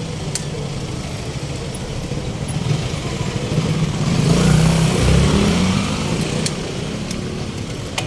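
Street traffic, with a motor vehicle passing close by: its engine swells to a peak about halfway through and then fades.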